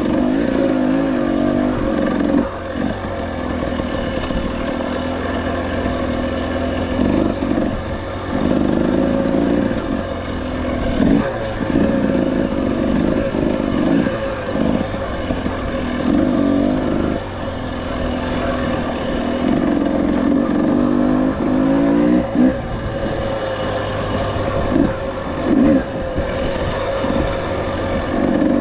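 300 cc two-stroke dirt bike engine being ridden on a tight trail, the throttle opened and closed in repeated bursts every few seconds, its pitch rising and falling with each burst.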